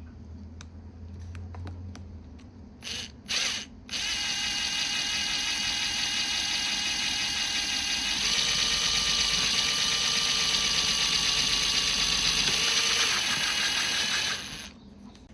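Electric power tool motor: two short bursts, then a steady whining run of about ten seconds that shifts slightly in pitch partway through and stops near the end.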